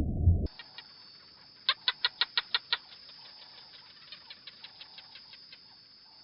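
A small animal's rapid run of about seven short, sharp chirps, followed by a fainter run of similar ticks. The first half-second is the tail of a low rumble that cuts off suddenly.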